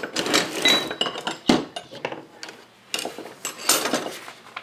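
Metal hydraulic valve parts being handled and set down, clinking and rattling in short clusters, with one sharp knock about one and a half seconds in.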